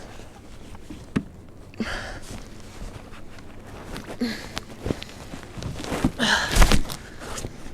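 Scattered knocks and splashy rustling on a fishing kayak while a fish is fought near the surface. There are sharp knocks about one and five seconds in, and the loudest rush comes about six and a half seconds in.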